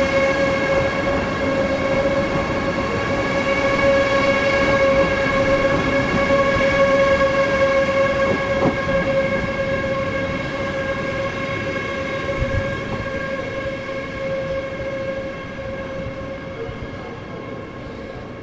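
A train in the station giving off a steady high whine with overtones, constant in pitch, which slowly fades away over the second half. There is a single brief knock about nine seconds in.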